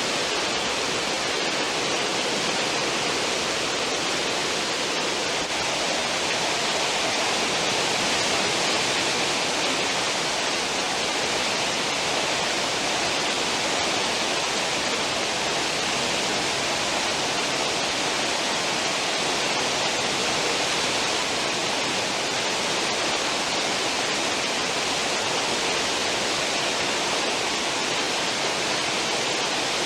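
Churning wake water behind a cruise ship, rushing and hissing steadily without a break.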